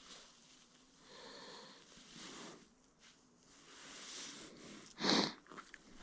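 A person breathing audibly, with a short, sharp sniff about five seconds in.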